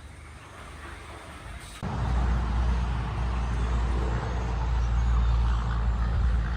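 Motor vehicle engine running with a steady low rumble, coming in suddenly about two seconds in after faint outdoor quiet.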